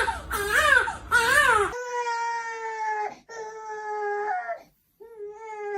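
An animal's wailing cries: several loud cries that rise and fall in pitch, then, after a sudden change about two seconds in, two long, steady, held calls with a short break between them.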